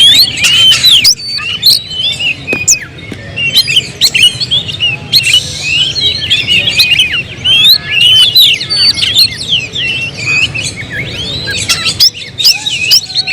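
Many caged songbirds singing at once: a dense, unbroken mix of quick chirps and whistled notes from several birds overlapping.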